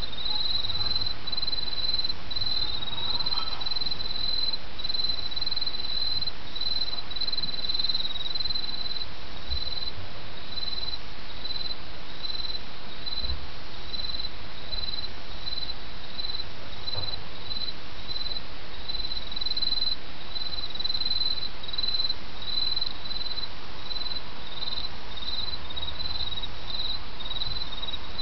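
Autumn crickets chirping in a steady run of short, high calls repeated a few times a second, over the even murmur of a small stream.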